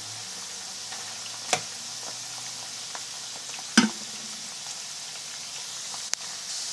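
Fresh-cut potato strips deep-frying in hot oil in a pan: a steady sizzle, with a few sharp clicks, the loudest a little under four seconds in. The potatoes are part-way cooked, still pale.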